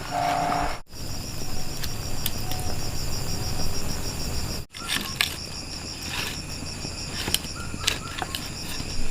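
Insects chirping in a rapid, steady, high-pitched pulsing trill, with a few scattered light clicks and knocks of handling.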